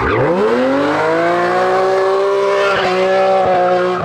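Competition car's engine at full throttle, revs climbing steeply in the first second and then held high, with two short dips in the note around three seconds in.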